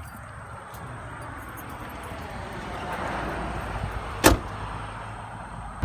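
Ford Crown Victoria's V8 running, heard from inside the cabin as a steady low hum, with one sharp knock about four seconds in.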